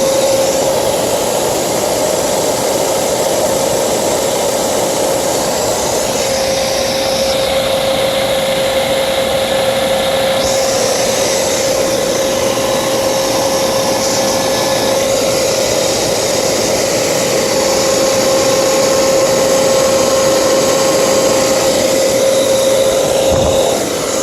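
Refrigerant recovery machine running steadily, pumping refrigerant out of an air-conditioning system into a recovery cylinder: a constant hum over an even rushing noise.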